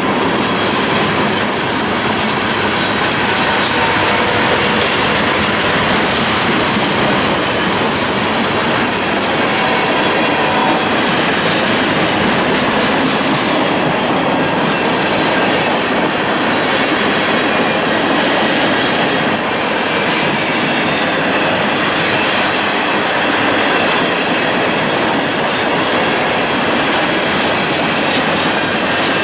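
Train cars rolling past on the rails, a loud, steady rumble of wheels on track with some clickety-clack and faint wheel squeal.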